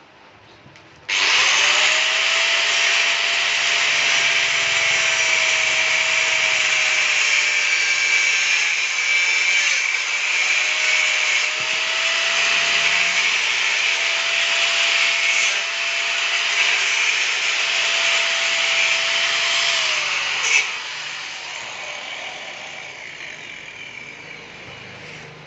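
An electric power tool starts suddenly about a second in and runs with a rasping, rubbing noise over a steady motor whine that dips briefly twice. It is switched off near the end, its whine dropping and the noise tailing away.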